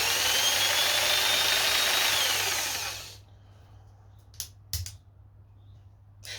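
Fieldmann FDP 200712-E 710 W corded jigsaw running with no load on its lowest speed setting, a motor whine that climbs as it spins up. It runs down and stops about three seconds in. Two clicks follow, and the saw starts again just before the end.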